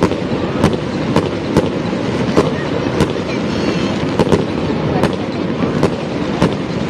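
Fireworks bursting in a rapid run of sharp cracks, about two a second, over a continuous dense crackle and rumble.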